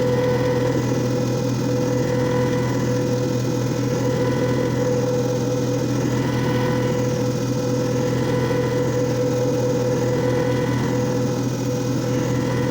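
JFJ Easy Pro disc repair machine running: a steady electric motor hum with a whine above it, and a faint sweep in the hiss that recurs about every two and a half seconds.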